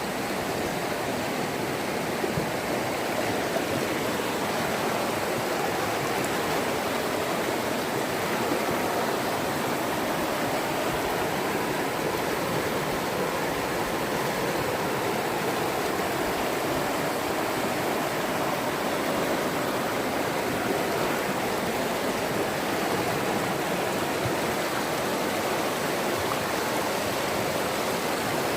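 River water pouring over a waterfall: a steady, unbroken rush of falling and splashing water.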